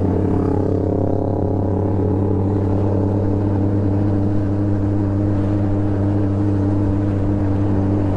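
Motorcycle engine running at a steady speed, a constant drone that holds one pitch.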